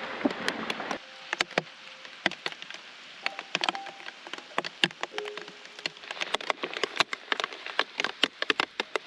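Raindrops falling as separate, irregular sharp ticks, several a second, over a soft hiss that fades about a second in. A few quiet held keyboard notes sound underneath.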